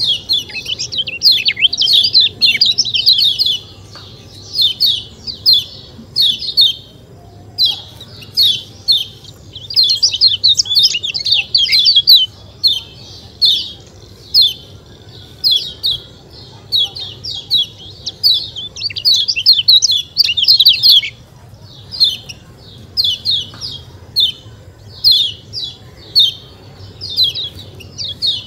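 Kecial kuning (a yellow white-eye) calling: rapid bursts of high, sharp chirps, phrase after phrase with short pauses between, the kind of 'ciak ciak' call played to get caged birds singing.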